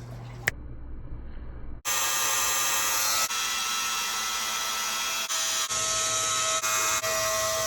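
A small electric motor running steadily with a whirring whine, starting about two seconds in and dropping out briefly a few times.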